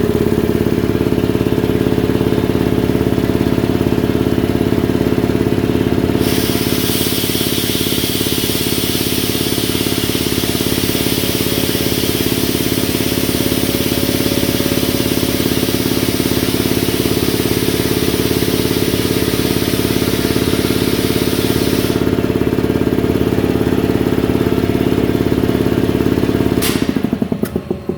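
Ingersoll Rand T30 piston air compressor, driven by a single-phase electric motor, running steadily with a rhythmic pumping drone. A loud hiss joins about six seconds in and stops about sixteen seconds later. Near the end there is a click and the compressor winds down as it is switched off.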